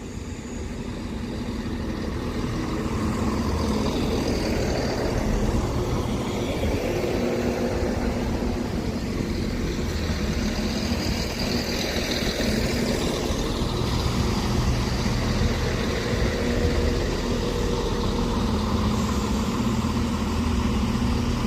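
Two coupled Class 170 Turbostar diesel multiple units pulling into a station, their underfloor diesel engines running with a steady hum. The sound grows louder over the first few seconds as the train comes in, then holds steady.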